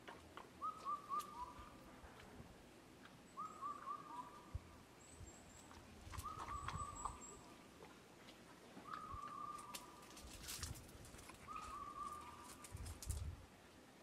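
A distant bird repeating one short, monkey-like call five times, about every two and a half seconds: a quick stutter of hooting notes that drops to a lower note. A few faint clicks come before a low bump near the end.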